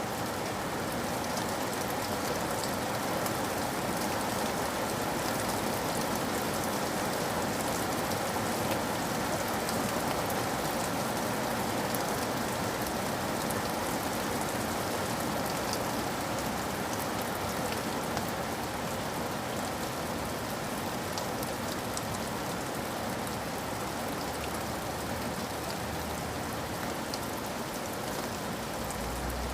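Steady rain falling, an even hiss with scattered drop taps throughout.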